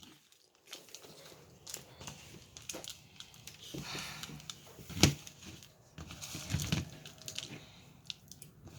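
Quiet rustling and scattered clicks of loose birdseed being handled in a bowl as a peanut-butter-coated pine cone is worked into it, with one sharper tap about five seconds in.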